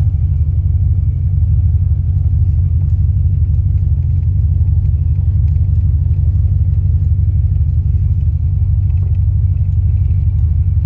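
Pickup truck driving slowly, heard from inside the cab: a steady, loud low rumble from its engine and drivetrain.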